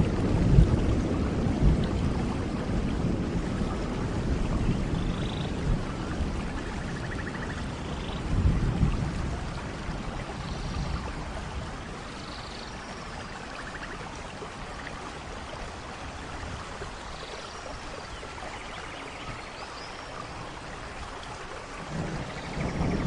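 Steady heavy rain in a thunderstorm with rolling thunder: a rumble dies away at the start, another swells about eight seconds in, and a new one builds near the end. A few faint high chirps sound over the rain.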